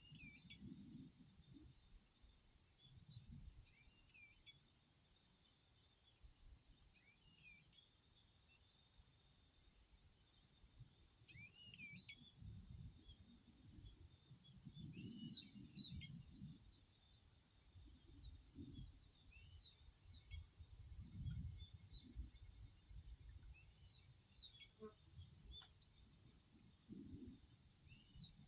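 Steady high-pitched insect chorus, with short bird chirps scattered throughout and wind buffeting the microphone in low gusts.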